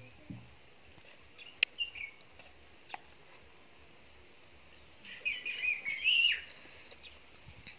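A bird calling in a run of quick chirps about five seconds in, over a steady high insect drone. A single sharp knock comes about a second and a half in, and a lighter tick follows a second or so later.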